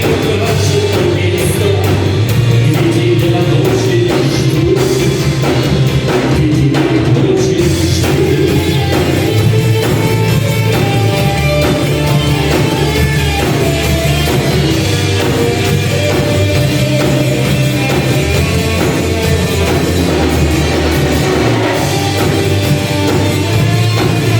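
Rock band playing live, loud and steady, with drums.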